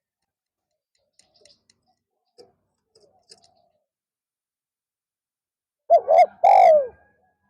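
Spotted dove cooing: two short notes and then a longer note that falls in pitch, loud and close, about six seconds in. A few faint, soft sounds come before it.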